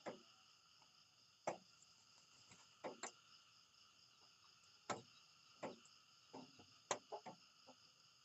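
Faint, steady chorus of insects, likely crickets, chirring, with about a dozen sharp, short clicks scattered irregularly through it.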